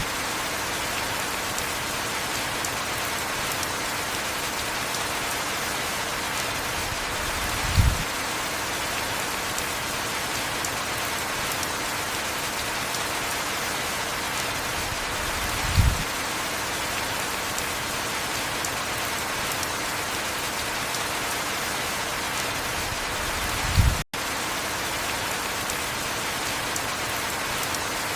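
Heavy rain falling steadily, with a short low thump about every eight seconds and a brief cut-out about three-quarters of the way through.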